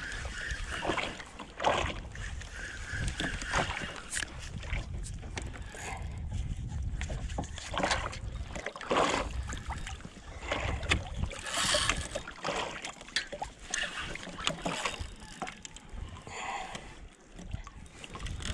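Irregular splashes and knocks of water and gear on a kayak, over a steady low rumble.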